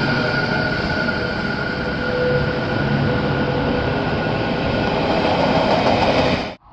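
Odakyu 4000-series electric commuter train running past at the platform: a loud, steady rolling rumble with a steady high tone over it, cutting off suddenly near the end.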